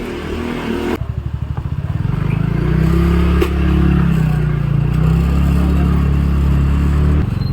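Vehicle engine running: a low pulsing turns into a louder, steady drone about two seconds in as it picks up speed, then eases back near the end.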